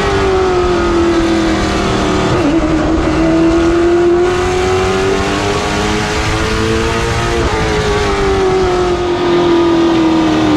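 Late model stock car's V8 engine at racing speed, its pitch dropping off for a turn in the first couple of seconds, climbing steadily down the straight, then dropping again for the next turn near the end.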